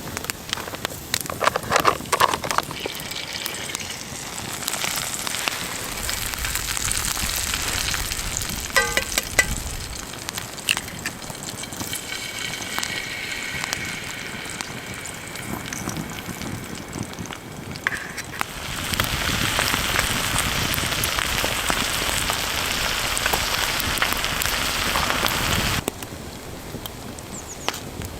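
Food sizzling as it fries over a crackling campfire, with many sharp pops. A louder, steady sizzle comes in about two-thirds of the way through and cuts off suddenly near the end.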